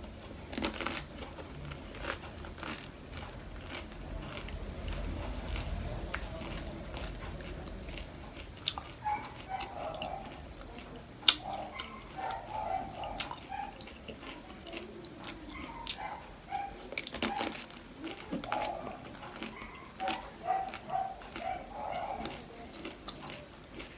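Close-up eating sounds: biting and chewing crunchy panipuri or chatpate, with scattered sharp crunches and wet mouth sounds.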